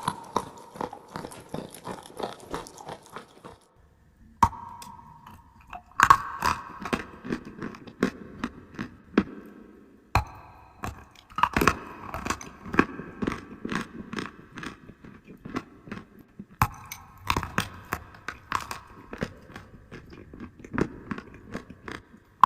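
Close-miked biting and chewing of clay: a rapid run of sharp crunches, broken by a few short pauses between bites.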